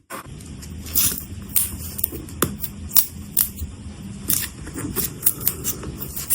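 Small metal watchmaker's tools clicking and tapping against watch parts at the bench: irregular sharp clicks, one or two a second, over a low steady hum.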